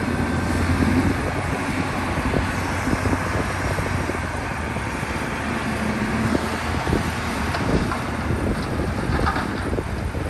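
Heavy earthmoving machine's diesel engine running steadily under load, with a few faint knocks.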